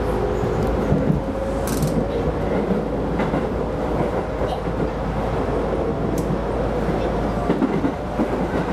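Keisei Line rapid train running on the rails, with steady wheel and rail noise heard from inside the front car. Two brief sharp clicks come through, about two seconds and six seconds in.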